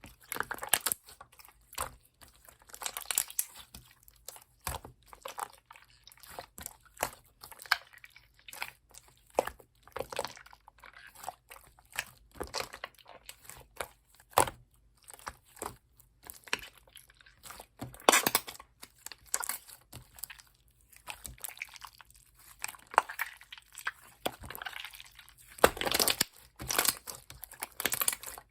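Clear slime being squeezed, poked and stretched by hand. It makes irregular sticky clicks, squelches and crackles of popping air pockets, with louder clusters about 18 and 26 seconds in.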